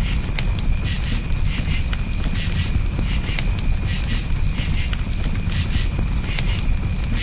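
Campfire crackling, with frequent sharp pops over a low steady rumble, while crickets chirp in quick repeated pulses.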